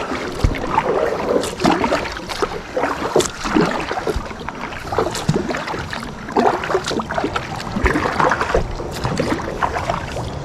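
Kayak paddle strokes dipping into and splashing the lake water, irregular and continuous, with short knocks and drips in between.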